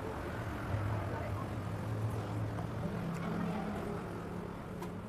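Biting and chewing juicy watermelon, with a few faint wet clicks. Underneath is a steady low droning hum that steps up in pitch about halfway through.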